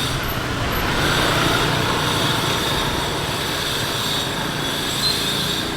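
Steady loud rushing noise, slightly louder about a second in, with a faint high tone above it.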